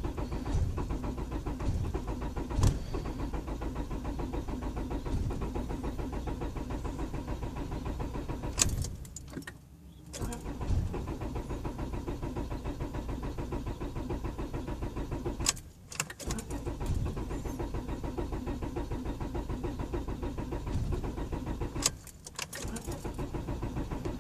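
1999 Honda Accord four-cylinder engine being cranked by its starter in long bursts, with three short pauses between attempts. It turns over with an even, fast pulsing rhythm but never catches: a crank-no-start despite spark at all four plug wires.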